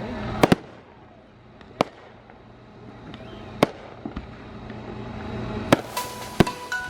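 Fireworks going off: about six sharp bangs at irregular intervals, two in quick succession about half a second in, over a low rumble.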